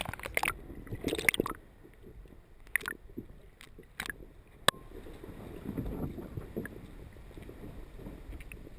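Water splashing as a sea bass is let go over the side of a kayak, then a few light knocks and one sharp click on the boat.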